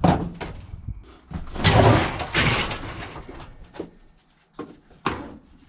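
Metal knocks and bangs, with a longer, louder scraping clatter about two seconds in and another sharp knock near the end.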